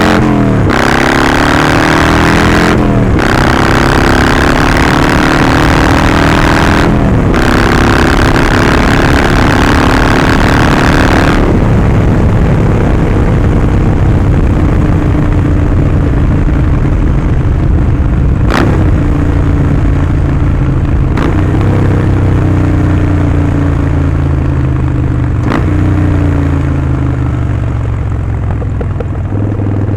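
Harley-Davidson Sportster Forty-Eight's 1200 cc V-twin through Vance & Hines slip-on exhaust, accelerating through three upshifts: at each shift the note drops off briefly and then climbs again. About 11 seconds in the throttle closes and the engine runs down in pitch on the overrun, with a few sharp clicks, then settles into low, steady running near the end.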